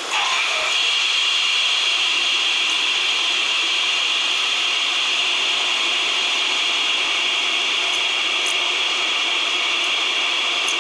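Steady jet airliner noise: an even hiss with a high whine held level throughout.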